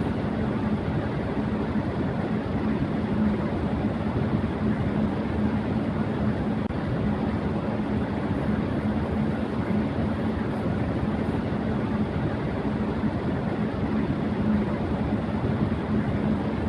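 Electric fan running at high speed: a steady rush of air with a steady low hum running through it.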